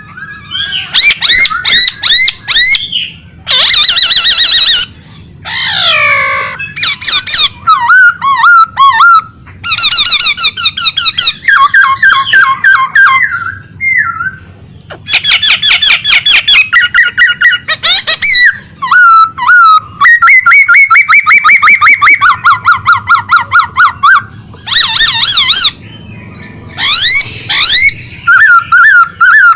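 A songbird singing hard and continuously: a long, varied song of rapid repeated notes, fast trills and sweeping whistles, loud and broken only by brief pauses.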